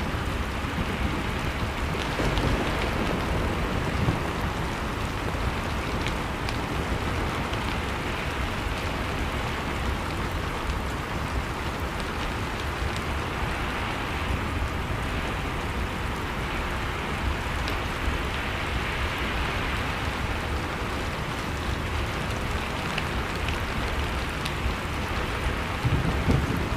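Blizzard wind and a crackling wood fire: a steady rushing noise with a deep rumble that swells and eases, dotted with small sharp pops from the fire.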